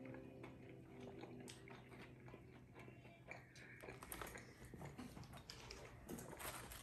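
Faint chewing and crunching of a bacon cheeseburger topped with crispy onion straws, with small crackles as the bites are worked, growing busier after about four seconds. A faint steady hum sits underneath in the first half.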